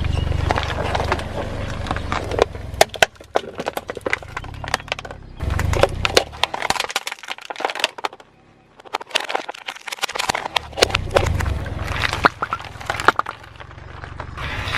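A car's tyres rolling over crunchy objects and crushing them: rapid, irregular cracking and snapping over a low rumble from the car. The crushing stops for a few seconds near the middle, then starts again.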